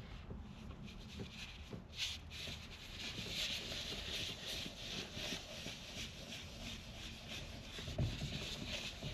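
An antibacterial cloth wiping and scrubbing a mouldy steering wheel, a steady rubbing hiss from about two seconds in. There is a sharp click about two seconds in and a dull knock near the end.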